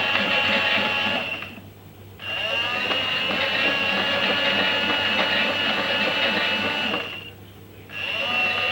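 Toy washing machine's small electric motor turning the drum with a high whine, stopping twice for about a second and spinning back up each time with a rising pitch, in the stop-start rhythm of a wash cycle.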